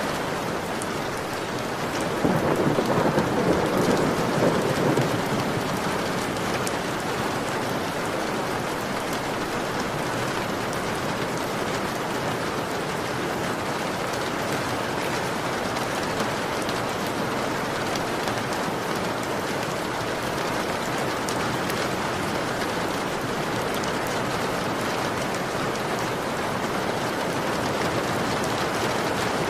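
Heavy rain falling steadily against a window pane, with many separate drop ticks. About two seconds in, a louder low swell lasts for a few seconds.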